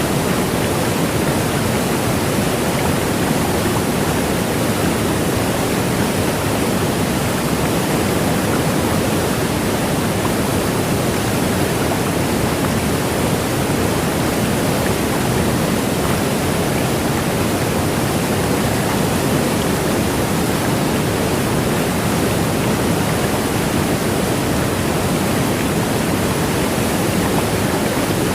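Waterfall pouring down in a steady, even rush of falling water that does not change.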